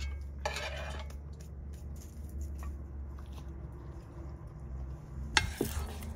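Dishes and metal cutlery clinking and scraping, with a sharp clink about five seconds in, over a steady low rumble.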